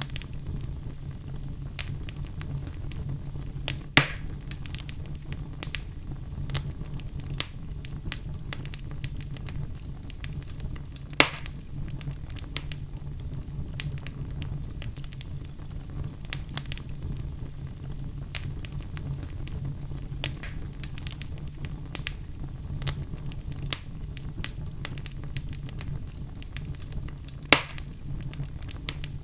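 Wood logs burning in a fireplace: a steady low rumble of flame with frequent small crackles and three louder pops, about four seconds in, past the middle and near the end.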